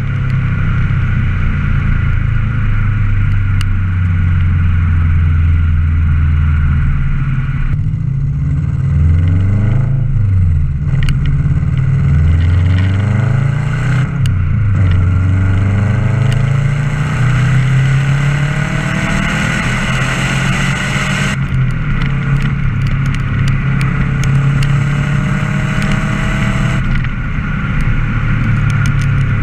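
Subaru Impreza WRX GC8's turbocharged flat-four engine running through an aftermarket Don Silencioso exhaust. It holds a steady note at first, then rises and falls in pitch several times in the middle before settling to a steadier note.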